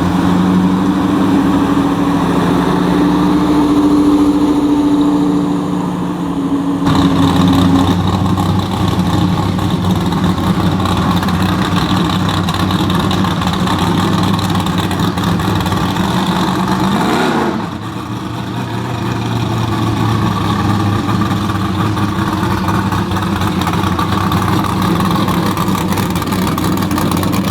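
Car engines running close by, steady, with the engine note changing about seven seconds in. Near the middle there is a brief rise and fall in pitch, like a rev or a car passing.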